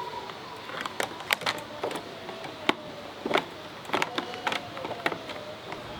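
Irregular sharp clicks and knocks of hand tools and metal parts being handled during scooter repair work, about a dozen, unevenly spaced, over a faint wavering whine.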